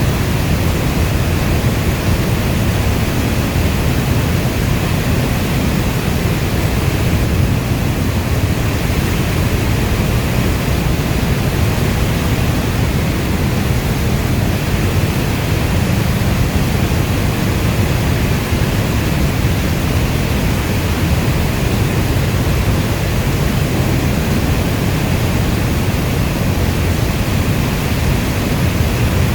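Steady, dense rainfall, an even rushing hiss heavy in the low end with no distinct drops or thunder, unchanging throughout.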